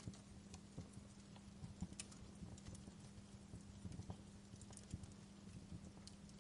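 Wood fire crackling in a fireplace: small irregular pops and snaps, a few sharper than the rest, over a low steady hum.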